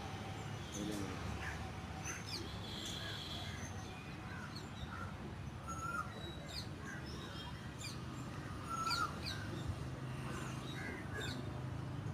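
Birds chirping and calling: short whistled notes and quick chirps scattered throughout, over a steady low hum.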